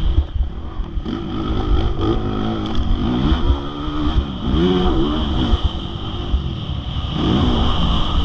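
Motocross bike engine revving up and down several times, its pitch rising and falling with the throttle, over a steady high whine and a low rumble.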